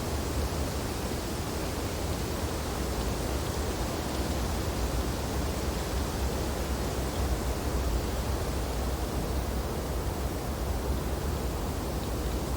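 Wind blowing steadily through tree branches: an even rushing noise with a deep low rumble, no distinct gusts or other events.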